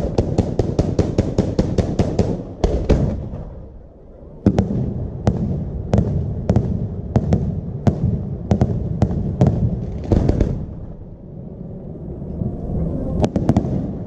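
Aerial fireworks display: a rapid volley of sharp launch reports and cracks, about six a second, is followed by a heavy deep boom just under three seconds in. After a short lull, single reports come about two a second, with another deep boom around ten seconds in and a new cluster of cracks near the end.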